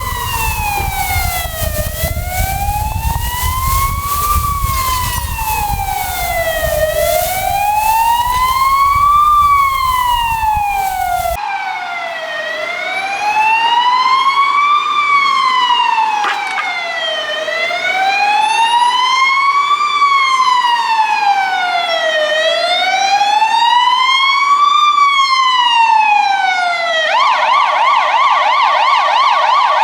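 Ambulance siren wailing in a slow rise and fall, about five seconds per cycle. Near the end it switches to a fast yelp. A low rumble lies under the first third and cuts off suddenly.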